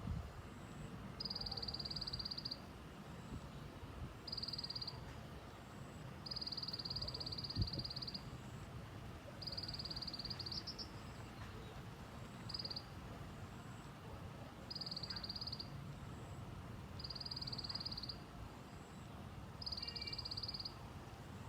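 A small bird the Vietnamese call chim sâu lác or 'tành tạch' giving its call: a high, dry, fast rattle of ticks, repeated eight times at intervals of two to three seconds, each burst lasting from half a second to nearly two seconds. A single low thump sounds about seven and a half seconds in.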